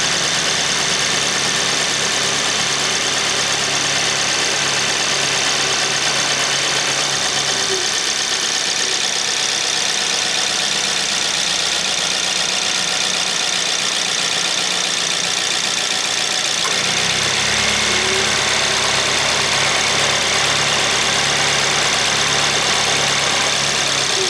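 Suzuki Swift Sport ZC31S's M16A four-cylinder engine idling steadily, with a steady high whine over it. The engine note shifts about seventeen seconds in. This is the check for the abnormal noise once blamed on the air-conditioning compressor, now that a rebuilt compressor is fitted.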